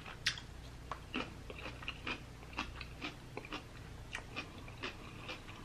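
Faint chewing: soft, irregular mouth clicks and small crunches of food being chewed.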